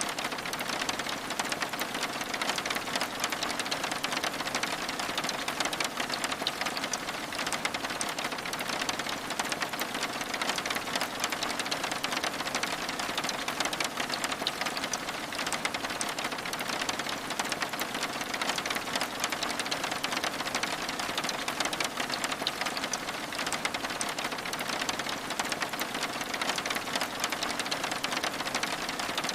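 Steady rain on window glass: a dense, even patter of many small drops with no let-up.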